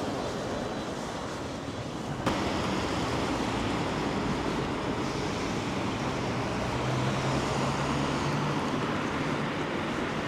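Town street ambience on a rainy night: a steady wash of traffic and rain noise. A single sharp click comes about two seconds in, and a low hum swells from about six to eight and a half seconds.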